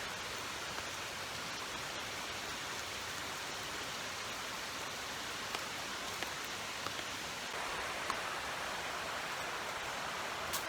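Steady hiss of water at a gorge campsite, even and unbroken, with a few faint clicks. It gets slightly louder about seven and a half seconds in.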